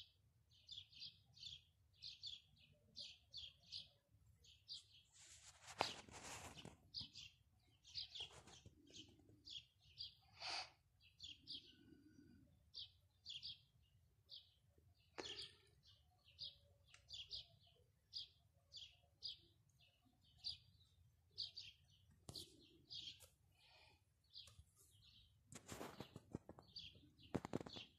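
Small birds chirping faintly, a steady string of short high chirps about one to two a second. A few short louder noises break in, the loudest about six seconds in and near the end.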